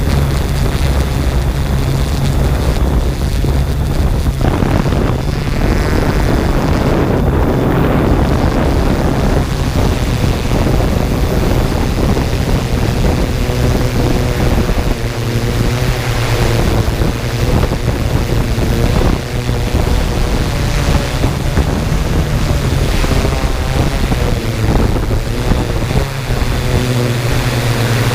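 Drone's propellers and motors running steadily, with wind noise on the microphone; from about halfway several buzzing tones waver in pitch as the motor speeds change.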